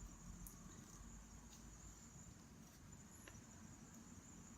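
Near silence: room tone with a faint, steady high-pitched whine and a few faint ticks.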